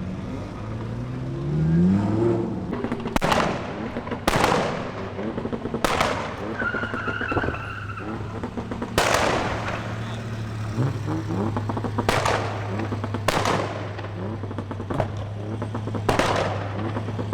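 A car engine revving up and then holding steady, with about seven loud, sharp exhaust bangs spread irregularly across it.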